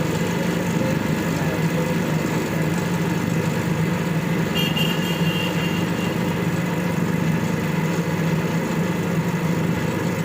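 Electric coil-winding machine running steadily as it winds a ceiling fan coil, with a constant low hum.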